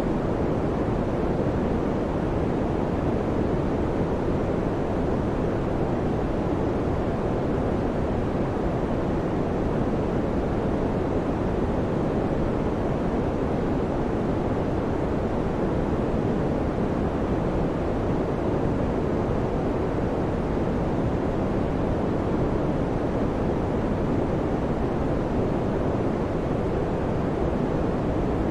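Electric fan running steadily: a constant, even whoosh of moving air, low and deep, with no hum, clicks or changes.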